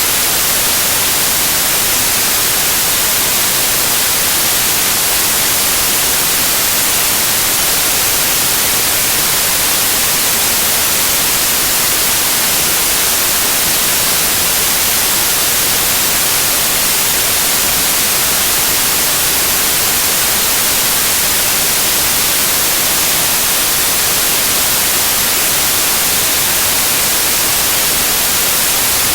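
Loud, steady white noise: an even hiss, brightest in the high treble, that never changes.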